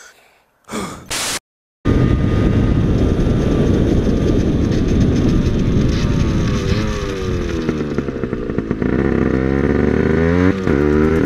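Small 50cc motorbike engine running under way, heavy wind noise on a helmet camera. The engine pitch falls over a few seconds as the bike slows, then climbs again near the end as it speeds back up.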